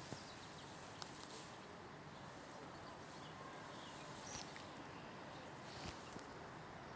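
Quiet, steady outdoor background with a few faint clicks and a couple of short, high chirps.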